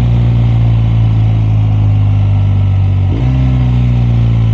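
BMW R 1250 RS boxer-twin engine running steadily under the rider through a sharp turn, with wind rush; the engine note breaks briefly about three seconds in, then resumes.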